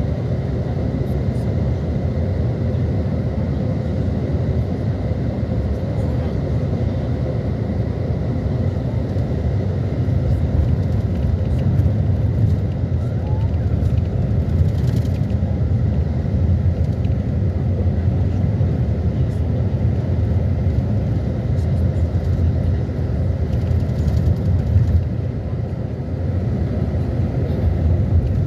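A steady low rumbling noise with no clear breaks.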